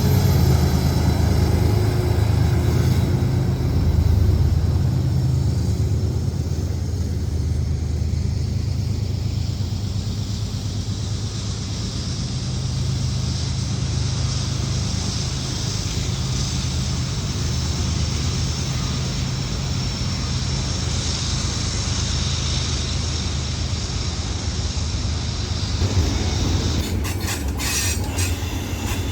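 CSX freight train passing, its diesel locomotives running with a steady low drone under the noise of the rolling cars. Sharp clicks from the wheels on the rails start near the end.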